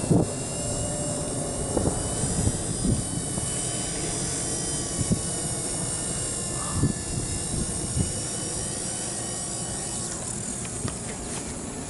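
Blade mCP X micro electric RC helicopter whining steadily as it hovers, its high motor and rotor tones fading away about ten seconds in. Wind buffets the microphone with low rumbles and knocks.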